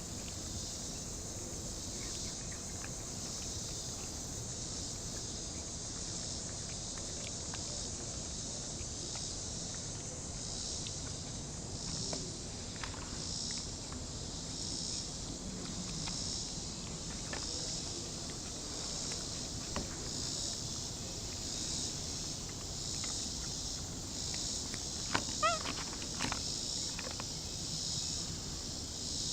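Steady high-pitched chorus of chirping insects, like crickets, pulsing evenly throughout. About 25 seconds in, a brief run of a few short squeaky chirps cuts through.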